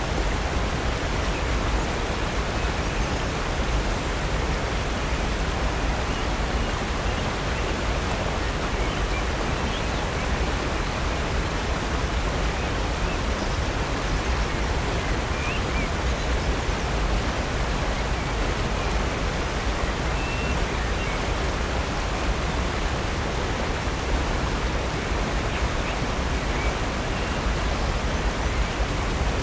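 Steady, unbroken rush of falling water from Upper North Falls, a 65-foot waterfall on Silver Creek.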